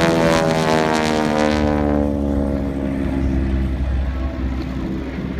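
North American T-6 Texan's Pratt & Whitney R-1340 radial engine and propeller going past in an aerobatic pass. Its drone drops steadily in pitch as it goes by, then settles into a lower, duller hum.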